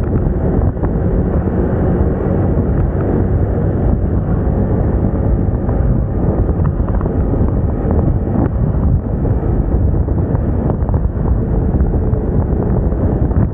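Wind buffeting the microphone while riding a Moda Moca 110 scooter at road speed, with its engine and tyre noise running steadily underneath.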